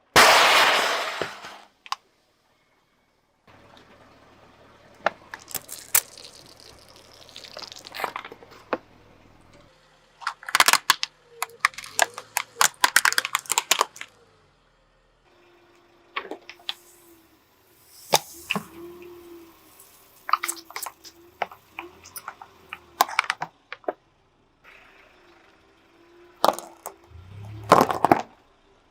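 Objects crushed under a car tyre in a series of short cuts: crackling and sharp cracking as they give way, with a loud crunch at the start and another near the end.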